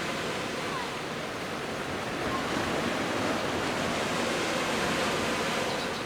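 Sea waves washing onto a beach: a steady rush of surf that swells from about two seconds in and eases near the end.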